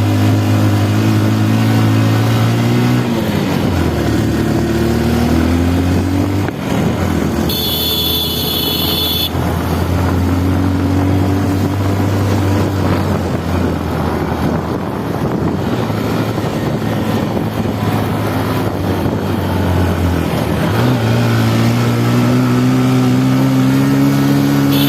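Motorcycle engine running under way, its pitch dipping and rising with the throttle. A short high-pitched tone sounds about eight seconds in.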